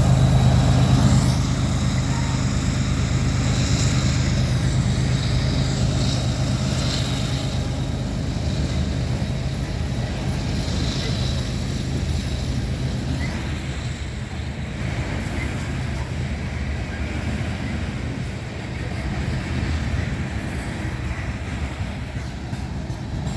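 Modern diesel-electric freight locomotives working up a steep grade. A steady low engine drone is loudest at first and gives way after a second or two to the rumble of the passing train, with faint high whining tones above it.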